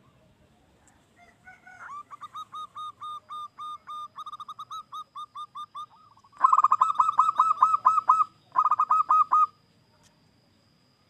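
Zebra dove (perkutut) singing: rapid runs of short, clipped cooing notes. A softer run lasts about four seconds, then two louder runs follow, and the song stops a couple of seconds before the end.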